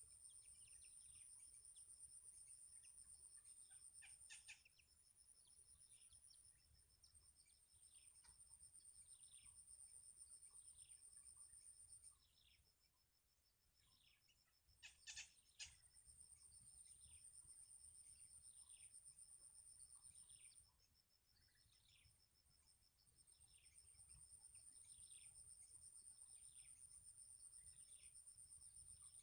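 A bird gives short falling call notes, about one a second, over a steady high-pitched insect drone that drops out briefly twice. A few sharp clicks stand out about 4 and 15 seconds in.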